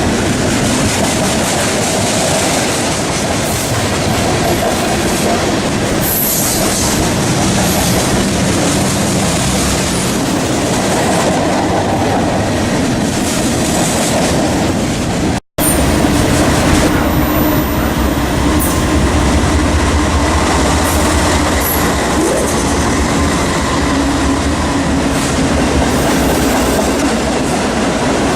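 Freight train rolling past, its steel wheels clattering over the rail joints in a steady, loud rush of noise. The sound cuts out for an instant about halfway through, then resumes with a heavier low rumble.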